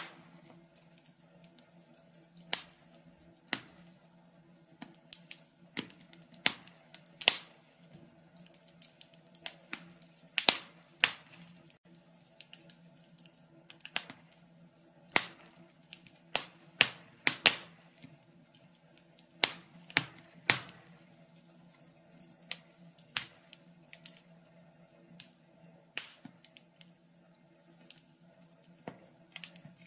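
Logs burning in a fireplace: irregular sharp crackles and pops, some louder snaps among them, over a faint steady low hum.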